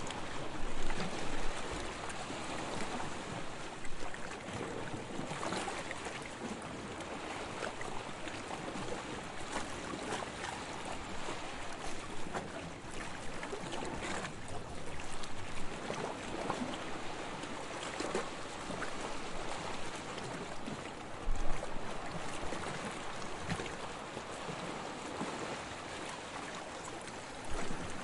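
Sea water lapping and splashing in small irregular waves, with a couple of louder splashes about a second in and near the 21-second mark.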